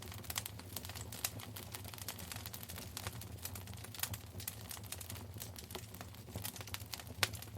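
Wood fire crackling in a fireplace: irregular sharp pops and snaps, a few louder than the rest, with the strongest near the end, over a low steady hum.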